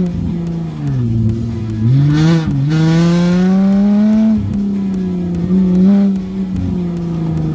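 Car engine heard from inside the cabin on an autocross run. The revs fall away about a second in, climb hard for about two seconds, then ease off and hold steady.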